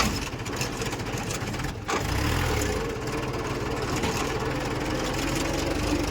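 Diesel engines of a tractor and a JCB 2DX backhoe loader running steadily as they move off, the tractor pulling a heavily loaded trolley of fill earth.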